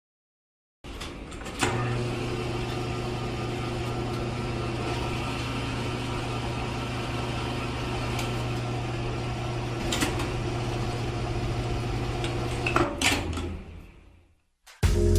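Small electric motor running with a steady hum, switched on with a click a second or so in and stopping near the end.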